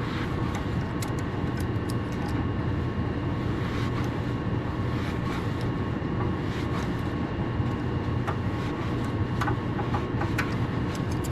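A steady machine hum with a low drone and a few thin steady tones over it, broken by scattered light clicks of parts being handled.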